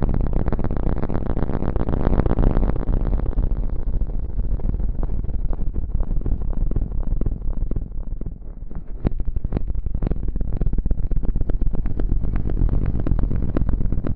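Close-miked ASMR rustling and scratching right at the microphone: a dense run of fast crackles, with a brief lull about eight seconds in, after which sharper separate clicks stand out.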